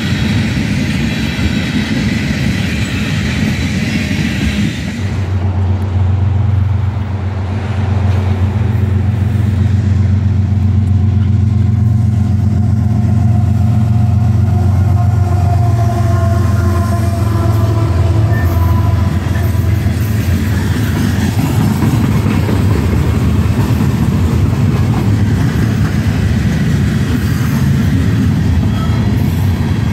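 Freight tank cars rolling past on steel wheels, then, after a cut about five seconds in, a pair of KCSM GE ES44AC diesel locomotives approach and pass with a strong steady low engine drone. Once they are past, gondola cars roll by with a broader rumble of wheels on rail.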